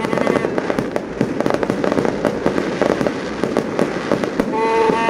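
Fireworks display: a dense, continuous run of crackling pops and bangs, with a brief pitched sound near the end.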